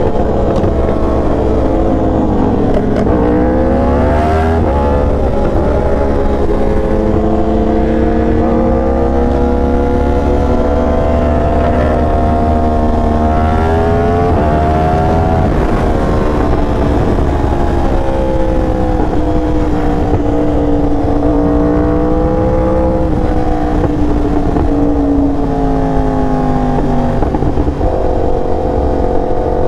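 Motorcycle engine heard on board while riding, its revs climbing and falling as it speeds up and eases off, with sharper climbs about four and fifteen seconds in. Wind rumbles underneath.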